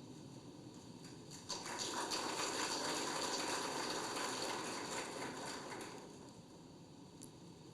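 A round of applause from an audience, starting suddenly about a second and a half in and dying away after about six seconds.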